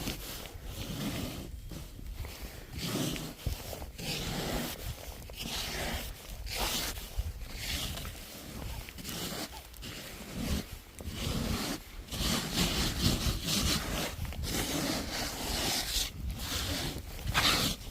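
Long-handled snow brush and scraper sweeping heavy snow off a car, a series of scraping strokes roughly a second apart.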